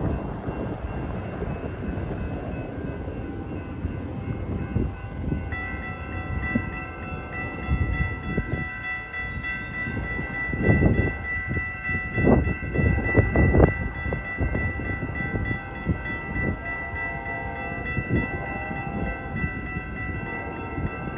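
Amtrak passenger train rolling slowly into a station, a low rumble with scattered knocks and clunks that are loudest about halfway through. From about five seconds in, a steady high squeal of several tones sets in and holds, typical of the train's brakes as it slows to a stop.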